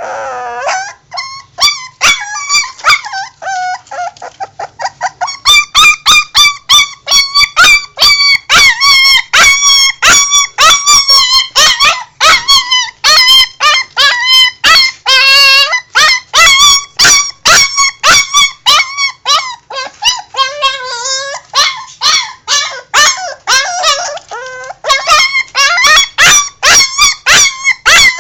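A dog giving a long run of high-pitched yelping, howl-like calls, about four a second. It starts with a few falling calls and gets louder and denser about five seconds in.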